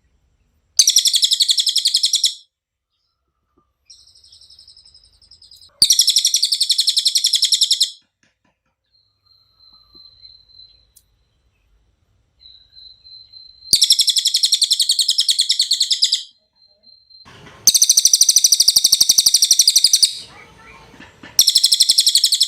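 Cililin (Javan hanging parrot) singing: loud, high, rapid trilled bursts of about two seconds each, five of them separated by short pauses, with a few faint, softer calls in between.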